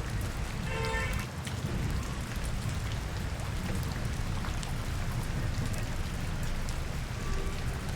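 Steady rain falling on a city street, with many small drop ticks over a low rumble. A brief pitched sound cuts through about a second in.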